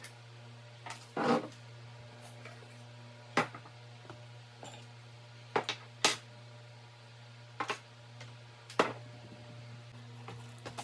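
Small household items being picked up and set down on a nightstand: about half a dozen light, separate knocks and clinks, over a steady low hum.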